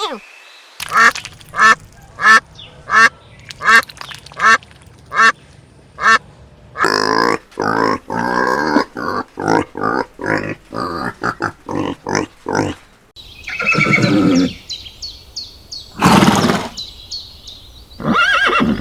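Duck quacking: about eight single quacks at an even pace, then a rapid run of many quacks close together, and a few louder calls near the end.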